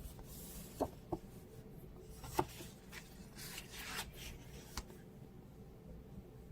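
Light handling noises: a few small clicks and knocks with short spells of rubbing or scraping, dying away to faint room tone for the last second or so.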